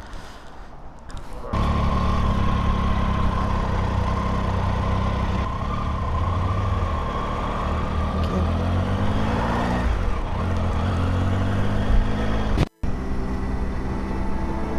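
Motorcycle engine running under way, starting abruptly about a second and a half in. Its pitch rises as it accelerates about two-thirds through, dips briefly and climbs again. The sound cuts out for a moment near the end.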